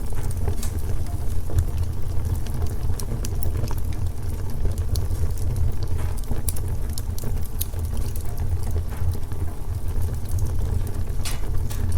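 Wood fire crackling in a fireplace: irregular sharp pops and snaps over a steady low rumble from the flames, with one louder snap near the end.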